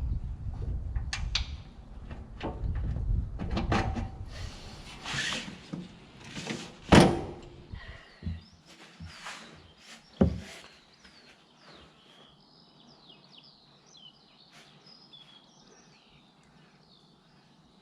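Irregular knocking and clattering of hands working on the machine, with two sharp loud thunks about seven and ten seconds in. After that it goes quiet, and small birds chirp in the background.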